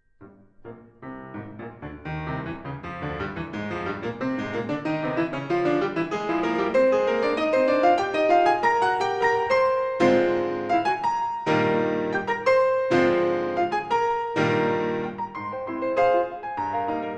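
Solo acoustic piano playing. It starts out of a brief pause, softly, and builds in a long crescendo to loud, full chords.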